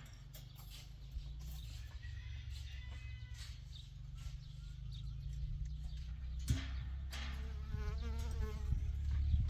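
An insect, likely a fly, buzzing as a steady low hum close to the microphone, with a short wavering call near the end.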